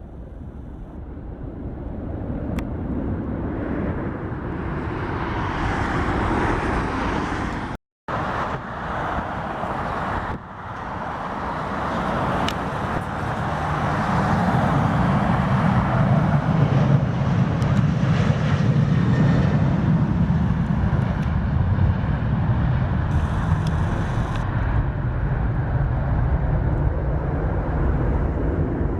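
Jet aircraft engines roaring as a plane passes on the runway, building in loudness, with a brief cutout about eight seconds in and a deep low rumble taking over from about halfway on.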